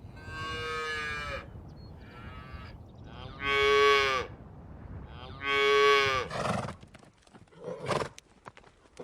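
Cattle mooing: four drawn-out calls of about a second each, the third and fourth loudest. Near the end, a short rough noise and a few light clicks.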